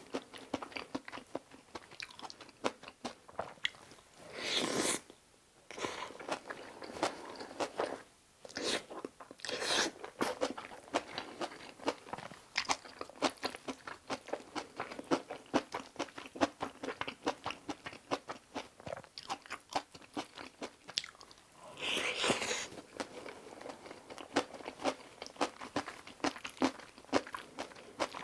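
Close-miked chewing of cream kimchi fried rice with kimchi, a steady run of short wet, crunchy mouth clicks. Two longer, louder noises stand out, about five seconds in and about twenty-two seconds in.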